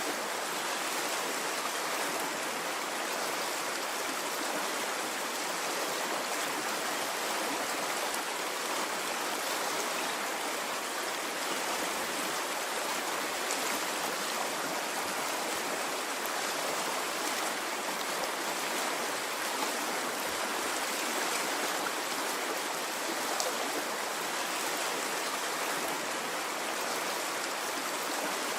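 Running water of a stream, a steady even rush that does not swell or fall away.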